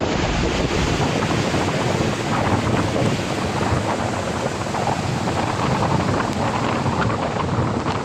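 Strong storm wind buffeting the microphone: a loud, continuous rushing noise that flutters in the low end.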